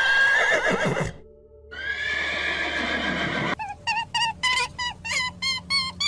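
Horse whinnying: a wavering call that falls in pitch, a second longer call, then a quick run of short pulsed calls at about four a second.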